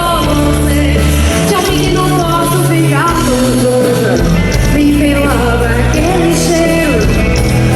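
Live rock band playing with a singer: distorted guitars, bass and drums under a sung melody.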